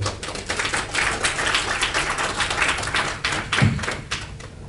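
Audience applauding, with dense clapping that thins out and dies away near the end.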